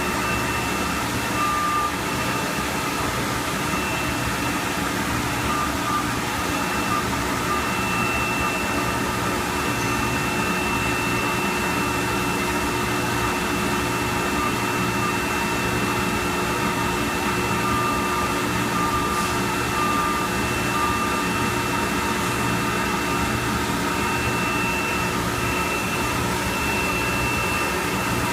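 Industrial parts washer running: a steady mechanical hum and rush with a thin, steady high whine over it and a low hum that pulses regularly.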